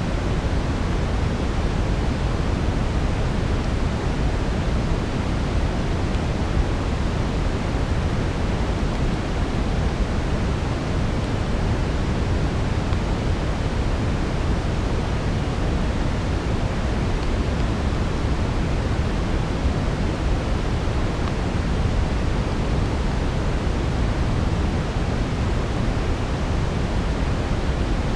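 Steady brown noise: an even, deep hiss, heaviest in the low end and thinning toward the highs, with no change throughout.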